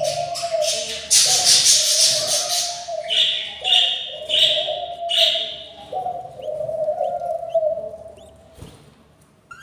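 Budgerigar chicks begging for food with harsh, raspy calls, which come in repeated bursts and then fade away near the end. A steady tone runs underneath.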